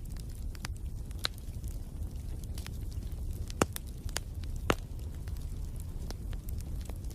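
Crackling wood fire: a steady low rumble with scattered pops and snaps, two louder pops a little past the middle.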